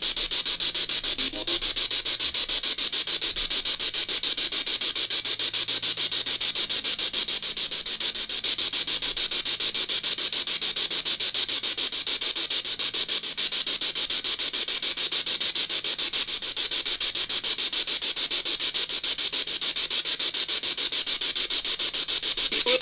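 Ghost-hunting spirit box scanning through radio stations: a steady hiss of static, chopped into rapid even pulses by the sweep.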